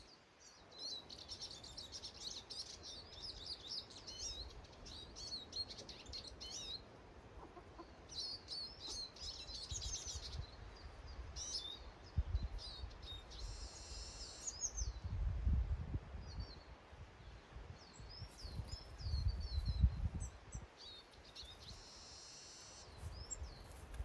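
Small garden songbirds chirping and twittering in quick repeated calls and short trills, with a few low rumbles in between.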